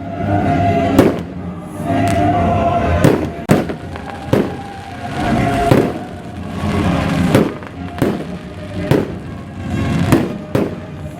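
Fireworks going off in a show, about nine sharp bangs at uneven intervals, over music played on loudspeakers.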